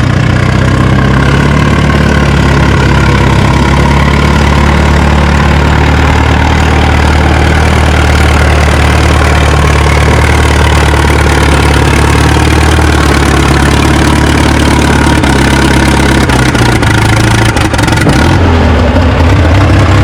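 Antique Case tractor engine running loud and steady under load while pulling a weight sled, its pitch shifting and briefly dipping near the end.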